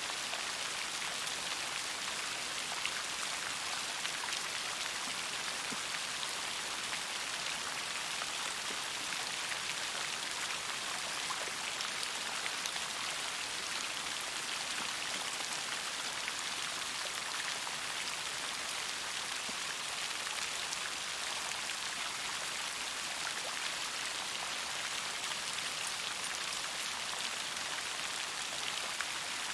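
Steady rainfall: a dense, even hiss of raindrops with many fine patters of individual drops, unchanging throughout.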